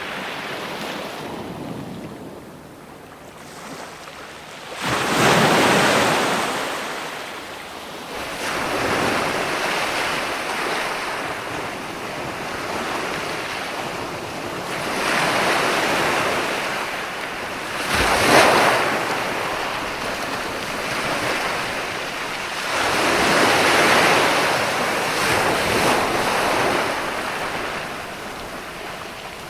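Ocean waves breaking and washing ashore, a rushing sound that swells and ebbs every few seconds, with its loudest crash about two-thirds of the way through.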